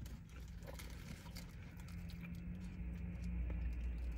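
Chewing and soft wet mouth clicks of people eating burgers, over a steady low hum.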